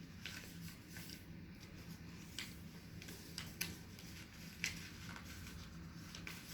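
Faint, scattered rustles and crinkles of sheets of paper being handled and folded into paper planes, a few short sounds spaced a second or so apart over a low steady hum.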